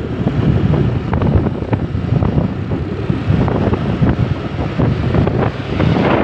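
Road traffic with heavy truck engine rumble, heard through strong wind buffeting the microphone. It is steady and loud, with rough crackling throughout.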